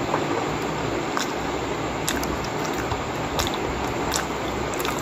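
A person chewing a mouthful of steamed pork momo, with a few brief clicks, over a steady background hiss.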